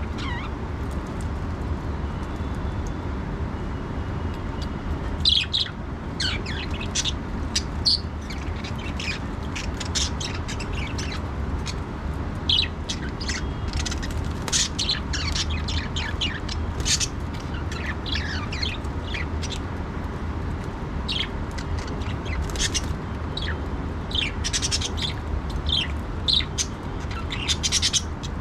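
Budgerigars chirping: many short, high chirps and squawks in quick, irregular succession, over a steady low hum.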